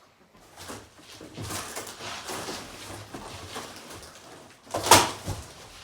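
A cardboard shipping box being opened by hand: irregular scraping and rustling of cardboard and packaging, with one sharp rip about five seconds in.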